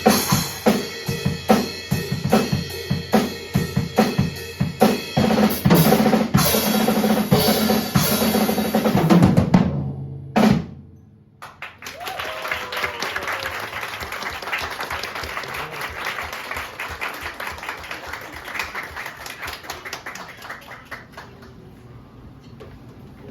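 Drum kit solo: rapid snare, bass drum and cymbal strokes building to a loud final hit about ten seconds in. After a brief pause, a steady noisy wash, most likely audience applause, slowly fades away.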